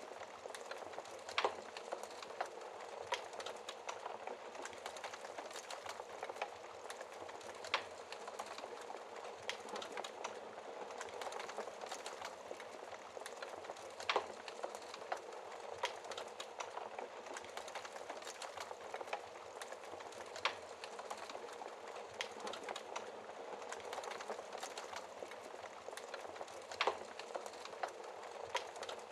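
Wood fire crackling in a fireplace: a steady soft crackle with sharp pops every few seconds.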